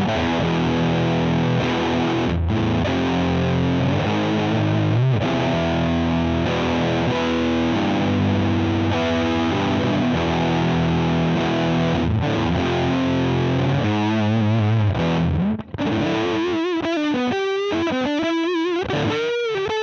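Electric guitar played through an Emmergy FX Flaming Cake Fuzz pedal, giving a distorted fuzz tone. It plays chords and riffs, cuts out briefly about three-quarters of the way through, then plays single sustained notes with wide vibrato.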